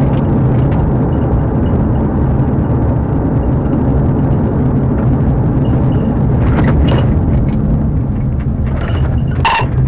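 Police patrol car's engine and tyre noise heard from inside the cabin as it drives, a loud steady drone. A short, high-pitched chirp sounds near the end.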